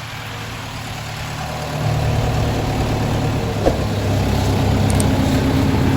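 Farm tractor engine running steadily, getting louder about two seconds in, with one short squeak about halfway through.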